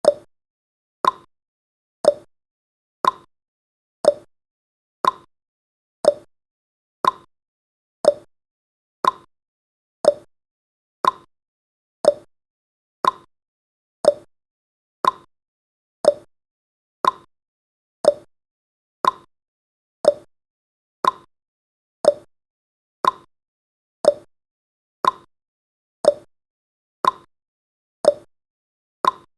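Countdown timer's ticking sound effect: one short, sharp tick every second, steady and evenly spaced.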